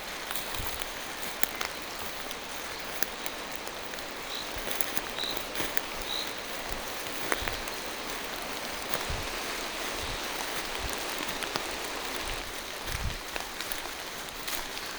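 Steady rain falling through forest trees, with many separate drop hits. A bird gives three short high notes about four to six seconds in.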